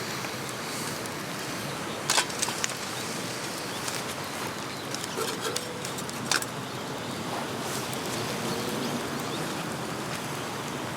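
Steady hiss of rain at a campsite, with a few sharp clicks or taps: a cluster about two seconds in and another about six seconds in.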